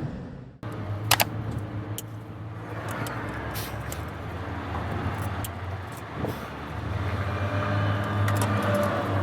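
Truck diesel engine running steadily, with a couple of sharp clicks about a second in.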